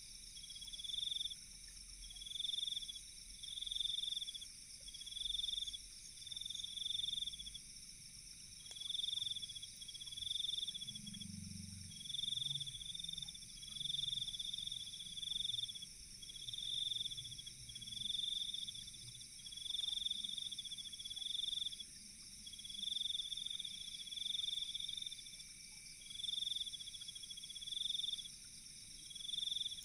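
Night insect chorus: a pulsed chirping call repeats about every second and a half to two seconds over a steady high-pitched drone of other insects. A brief low rumble comes a little before the middle.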